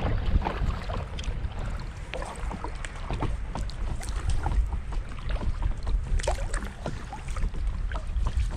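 Wind buffeting the microphone with a low rumble, over many small irregular splashes and slaps of wind-driven chop against a kayak's hull as it is paddled into a headwind.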